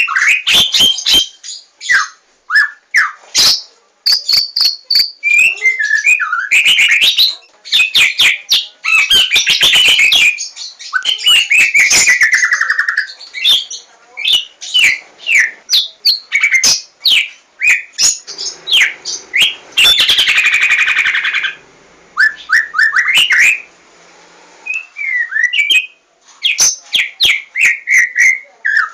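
White-rumped shama (Javan murai batu) singing: a fast, varied run of clear whistles, rising and falling sweeps and sharp clicks, broken by a few harsher buzzy phrases and short pauses.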